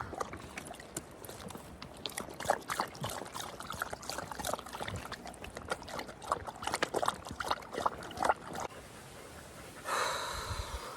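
Dogs lapping and slurping water in a quick, irregular run of wet laps that stops about eight and a half seconds in. Near the end there is a brief rushing noise lasting about a second.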